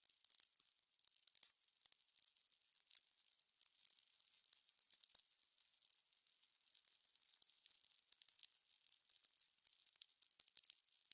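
Fire crackling: a steady run of small, irregular snaps and pops, thin and high-pitched, with nothing low underneath.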